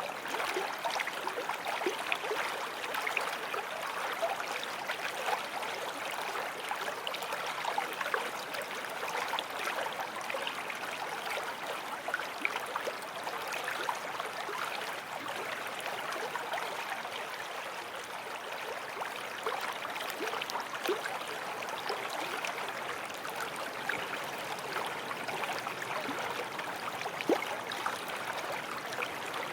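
A small forest stream flowing and babbling over stones, a steady splashing rush of water with tiny gurgles.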